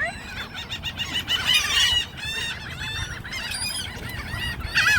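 A flock of birds calling over one another, a dense chorus of short, repeated squawks that never lets up, louder about two seconds in and again near the end.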